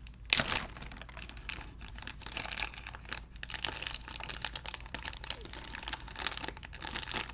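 Plastic toy packaging crinkling and tearing as it is worked open by hand, with a sharp crack about a third of a second in and steady crackling after.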